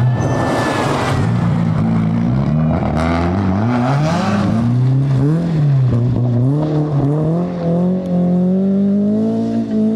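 Rally car engine revving up and down repeatedly with the throttle through a corner, with short bursts of hiss near the start and about four seconds in, then holding a slowly rising note as it accelerates away.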